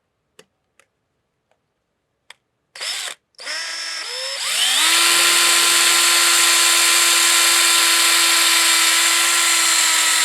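Power drill boring out a broken bolt in metal. A few light clicks, then a brief trigger blip about three seconds in. The motor then winds up in pitch and runs steadily at speed.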